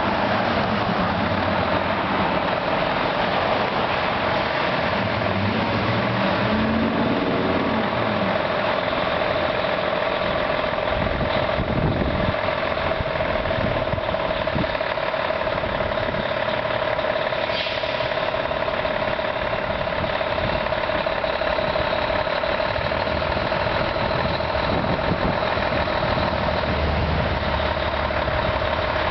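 A fire truck's diesel engine and road noise while driving, steady and loud, with a constant whine running through it.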